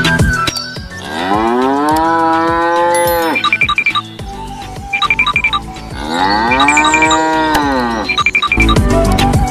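A cow mooing twice, each a long call of about two seconds that rises, holds and falls in pitch, with short chiming notes between the calls.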